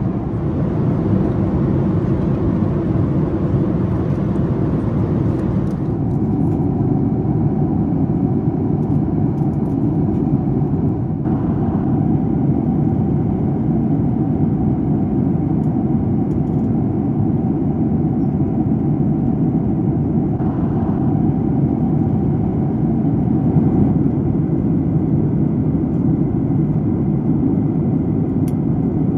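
Steady cabin roar inside a Boeing 737 MAX 8 in cruise: the rumble of its CFM LEAP-1B turbofans and the airflow over the fuselage, with a faint steady hum in it. The upper hiss thins out about six seconds in.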